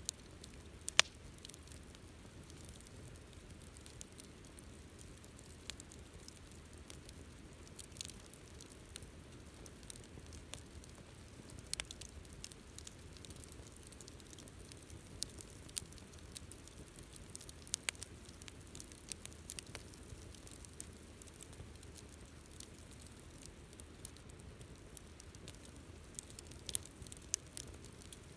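Wood campfire burning, with a faint steady hiss and scattered sharp crackles and pops, the loudest about a second in.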